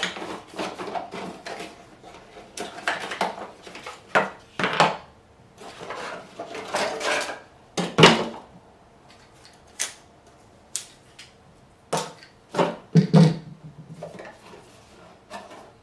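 A Joby GorillaPod 3K's packaging being handled and opened: an irregular run of rustles and scrapes with several sharp knocks and clicks.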